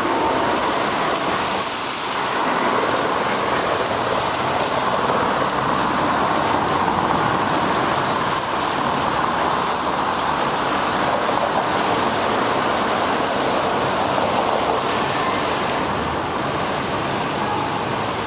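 Steady rushing road noise from a bicycle ride in the rain: tyres hissing on wet pavement and wind on the microphone.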